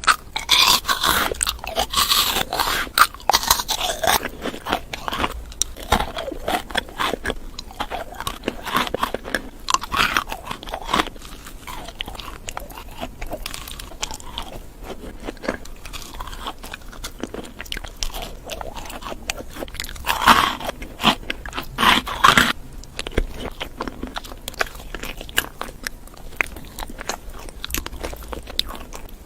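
A person biting into and chewing crunchy food, with wet crackling chews. The biting is loudest in the first few seconds and again about twenty seconds in, with quieter chewing in between.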